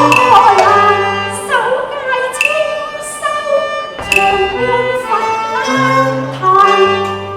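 Cantonese opera ensemble music: a bowed fiddle melody sliding between notes over held low notes, with a few sharp percussion strikes, one of them about four seconds in.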